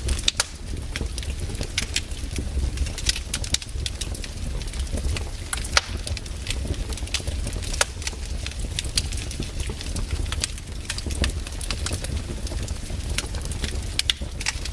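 Wood campfire burning, crackling with irregular sharp pops and snaps over a steady low rumble.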